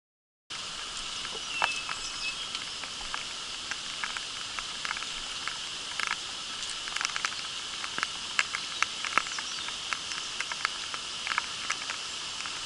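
Steady rain: an even hiss with many irregular sharp ticks of drops striking close by.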